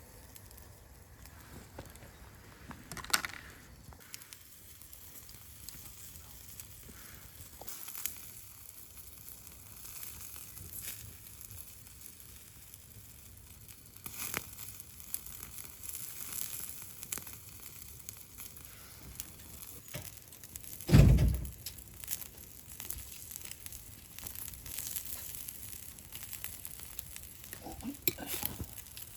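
Bonfire burning with scattered crackles and pops over a steady hiss; one loud low thump about two-thirds of the way through.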